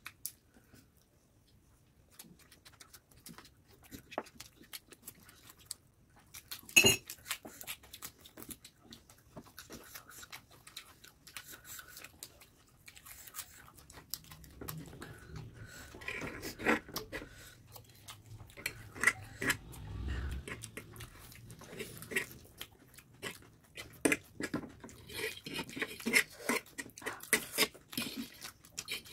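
Close-miked eating: chewing and mouth sounds of two people eating noodles and fried chicken, with scattered clicks of forks against the platter that grow busier near the end. A single sharp knock about seven seconds in is the loudest sound.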